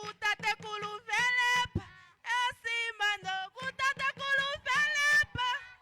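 A single high-pitched voice singing in short phrases of held notes, with breaks between them; it stops near the end.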